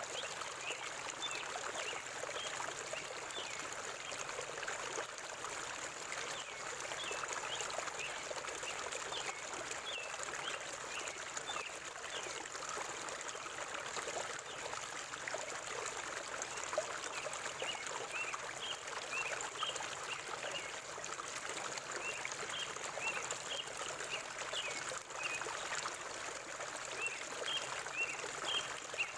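River water flowing steadily, with birds giving short, high chirps in scattered runs.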